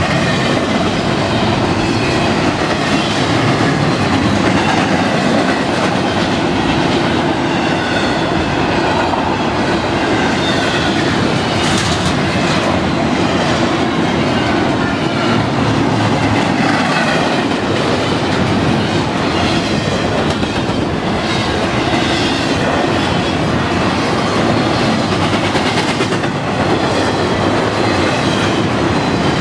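Freight cars of a fast CSX train rolling past close by: steel wheels clattering over the rail joints in a steady loud rumble, with faint high wheel squeals coming and going.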